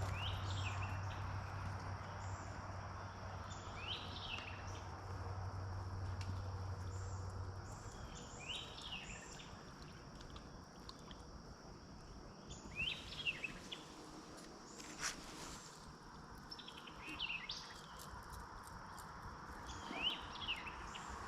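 Swamp ambience: a bird calls every few seconds with short chirping notes over a steady high insect drone. A low steady hum fades out about eight seconds in.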